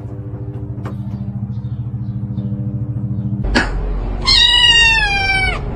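A cat gives one long meow, sliding slightly down in pitch at its end, a little past the middle. Before it comes a steady low hum with a fast pulse.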